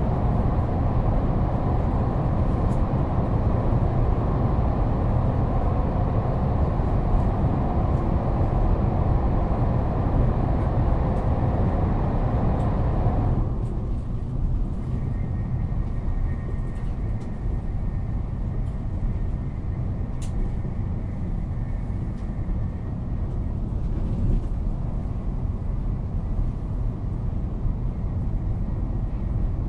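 Steady rumble of a moving train heard from inside the carriage. About halfway through the sound abruptly turns duller, and a faint steady high whine follows for several seconds.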